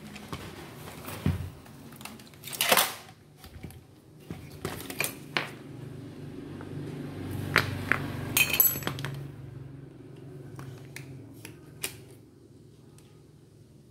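Hand tools and loose metal parts of a rotary hammer drill clicking, clinking and scraping as it is taken apart: a scraping rub about three seconds in, and a quick run of sharp clicks around the middle.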